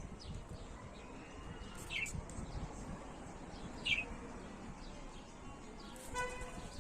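Budgerigar chirping: two short, high, falling chirps about two seconds apart, a few fainter ones, and a brief harsher call near the end.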